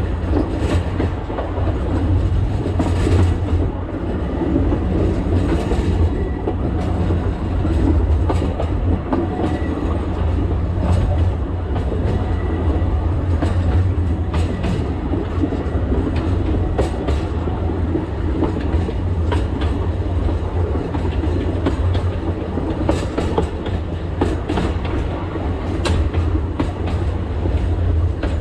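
Alishan Forest Railway narrow-gauge train running, heard from the front cab: a steady low rumble with frequent sharp clicks of the wheels over the rail joints.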